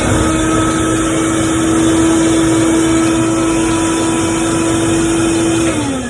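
Shop vacuum blowing air into a large inflatable ball: the motor runs at a steady whine with a rush of air, then winds down in pitch near the end as it is switched off.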